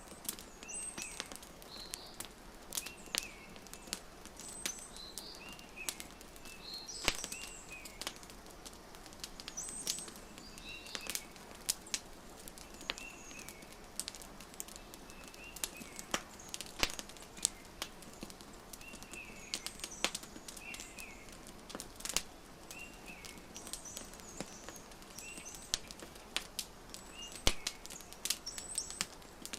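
Wood fire crackling with frequent sharp pops and snaps, over a soft hiss, while small birds chirp short repeated calls every second or two.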